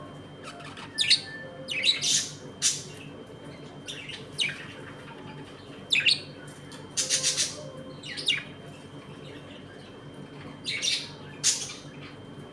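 Pet budgerigars chirping in short, sharp, irregular calls, with a quick run of three chirps about halfway through.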